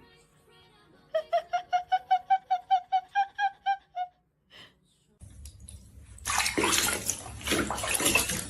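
A quick run of about fifteen short high chirps, about five a second and rising slightly in pitch, then from about six seconds in a loud, steady rush of running water.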